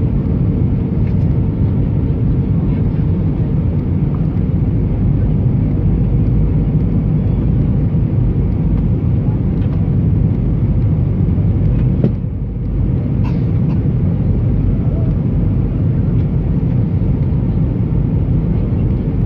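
Steady deep roar of an Airbus A320's engines and airflow heard inside the passenger cabin, with a faint constant hum. A short click and brief drop in level come about twelve seconds in.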